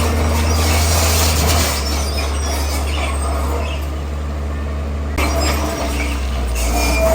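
Komatsu crawler bulldozer working as it pushes rock, its diesel engine running with a steady low drone under the grinding of the machine. The sound shifts suddenly about five seconds in.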